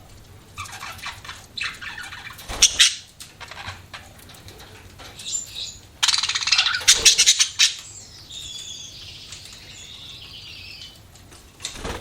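Budgerigars chirping and chattering in quick, busy bursts, loudest about halfway through, followed by a softer warble.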